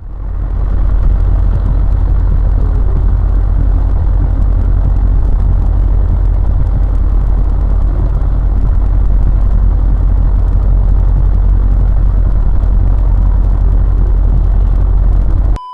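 Steady low rumble of a car driving, engine and road noise as picked up by a dash cam inside the vehicle. It cuts off abruptly at the end.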